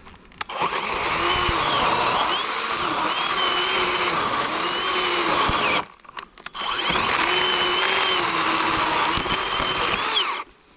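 Cordless 40-volt Worx WG384.9 electric chainsaw with an 18-inch bar cutting into a large downed log in two long passes, with a short pause about six seconds in. The motor's whine dips and recovers again and again as the chain bites into the wood under load.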